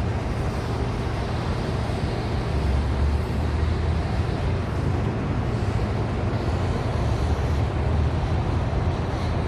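Wind buffeting the microphone: a steady low rumble and hiss that swells in gusts every couple of seconds.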